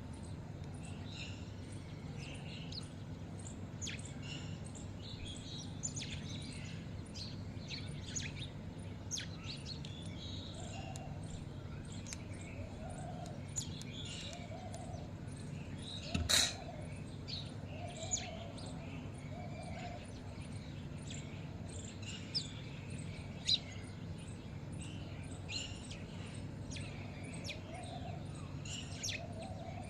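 Many birds chirping and twittering in short high calls throughout, over a steady low hum, with one sharp knock about halfway through.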